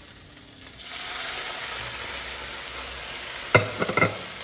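Kale and mixed greens sizzling as they hit a hot wok, a steady hiss that swells up about a second in. Near the end come two sharp, ringing clanks about half a second apart, the loudest sounds.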